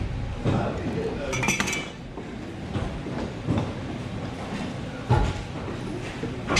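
A metallic clink that rings briefly about a second and a half in, with a dull knock about five seconds in and voices in the background.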